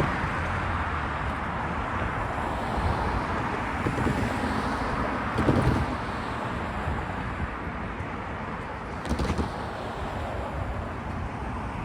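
Freight cars rolling past at a railroad grade crossing, a steady rumble of steel wheels on rail with occasional heavier knocks, with wind on the microphone.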